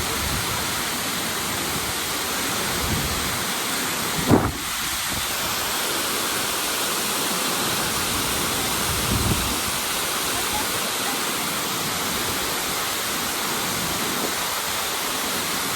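Tortum Waterfall: falling water rushing in a steady, even wash of noise. Two low thumps break through it, a sharp loud one about four seconds in and a weaker one about nine seconds in.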